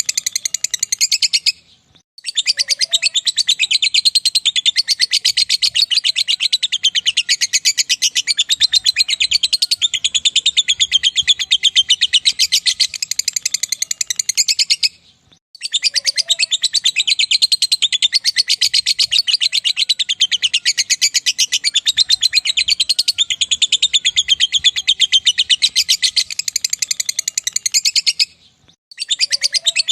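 Lovebird singing the long 'ngekek' chatter: a very rapid, high-pitched chattering trill held for long phrases of about 13 seconds, broken by short pauses about two seconds in, halfway through, and near the end.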